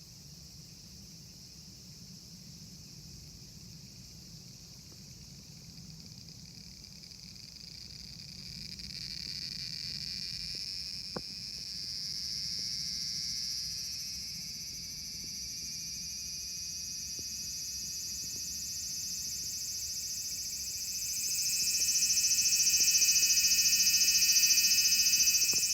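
High-pitched insect buzzing that swells gradually over many seconds and is loudest near the end. A single sharp click comes about eleven seconds in.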